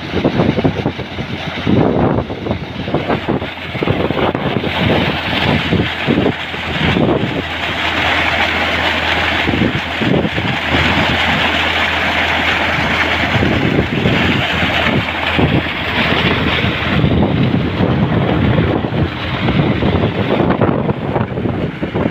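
Tractor engine running with heavy wind buffeting the microphone, and a strong rushing hiss that swells through the middle of the stretch.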